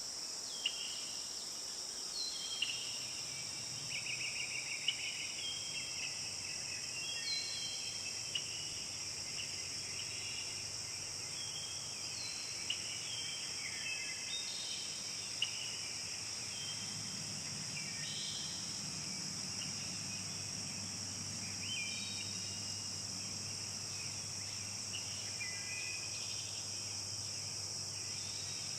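Forest ambience: a steady, high-pitched insect chorus of crickets or cicadas, with birds giving many short chirps and calls over it. A faint low hum joins about halfway through.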